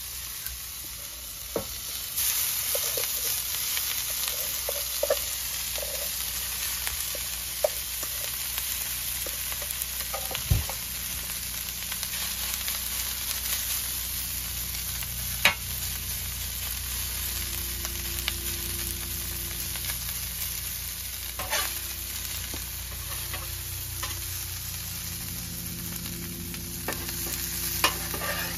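Diced vegetables and rice frying on a Pit Boss portable flat-top griddle, a steady sizzle that gets louder about two seconds in. A metal spatula scrapes and clacks on the griddle plate now and then, several sharp taps in all.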